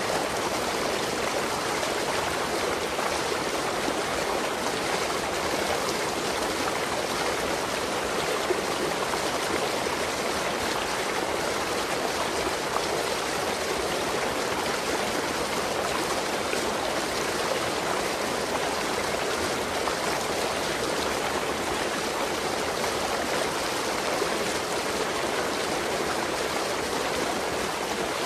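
Waterfall: falling and running water rushing in a steady, even noise.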